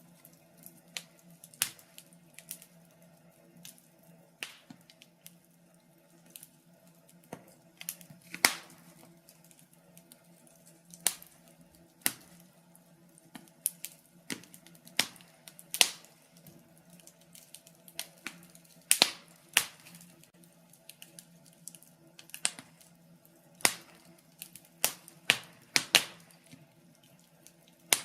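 Wood fire crackling in a fireplace: burning logs giving off irregular sharp pops and snaps, some louder than others, a few close together near the end, over a faint steady low hum.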